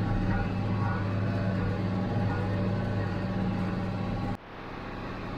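Diesel tractor engine of an International Harvester 886 running steadily under load while pulling a square baler. About four seconds in, the sound drops suddenly and then builds back.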